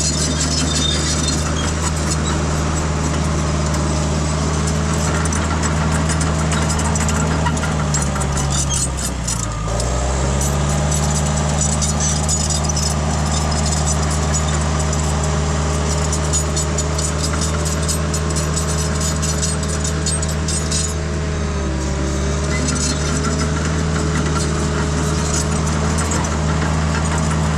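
Diesel engine of a small '450' crawler dozer running steadily under load. Its pitch sags and recovers about nine seconds in, and dips slightly again past the twenty-second mark.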